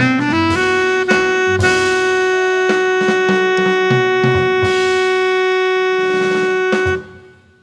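Saxophone playing a jazz etude's closing phrase: a quick run of notes, then one long held final note over a jazz backing of walking bass and drums. The ensemble cuts off together about seven seconds in.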